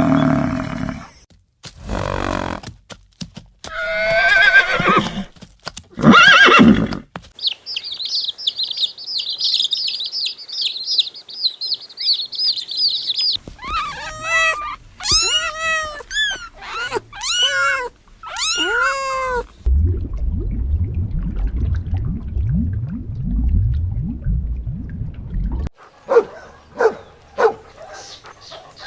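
A series of different animal calls, each lasting a few seconds: short calls, a long stretch of steady high chirping, six or so arching calls in a row, then a low rumbling growl, then more short calls near the end.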